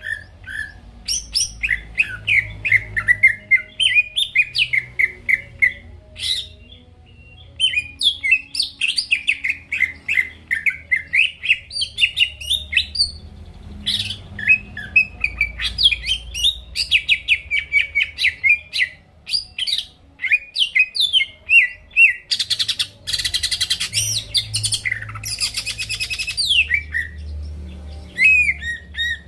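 Green leafbird (cucak ijo) singing continuously in fast, varied chirping phrases, with a harsher, rapid rattling stretch near the end.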